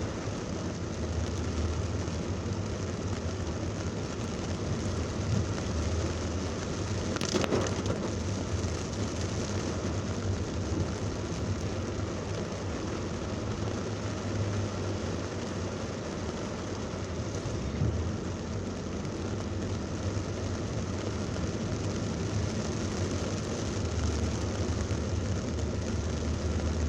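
Heavy thunderstorm rain falling steadily, over the low rumble of a vehicle and traffic. One brief sharp knock comes about seven seconds in.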